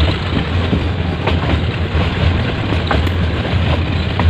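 Metre-gauge passenger train running along the line: a steady low rumble of the moving coaches with scattered short clicks and knocks from the wheels on the track.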